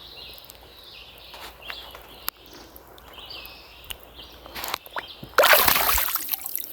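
Water sloshing and splashing in a river, with scattered small clicks. A louder splash comes about five and a half seconds in and dies away over a second.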